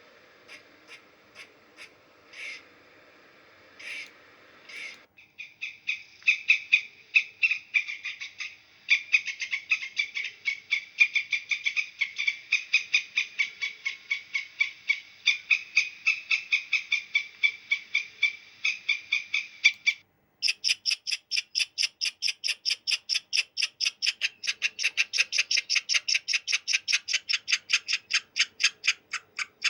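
Animal calls: first a few separate short calls, then a long run of short calls repeated several times a second. A sudden break about two-thirds of the way through gives way to a higher-pitched run of rapid calls.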